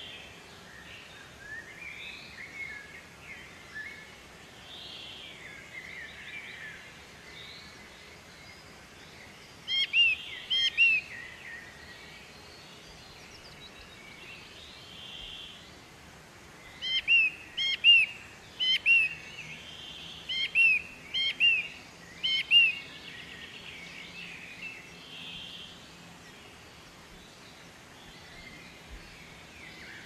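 Birds calling in a steady background chorus of faint chirps. A nearer bird breaks in with loud, sharp, down-slurred notes: a short run of three about a third of the way in, and a longer run of about eight in the later part.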